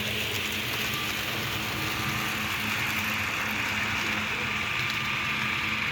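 Model train running along the layout's track, a steady whirring rattle of wheels and motor.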